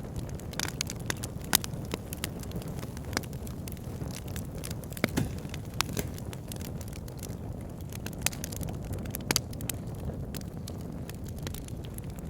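Wood fire burning in a log burner: a steady low rumble of flames with frequent irregular crackles and sharp pops from the burning logs.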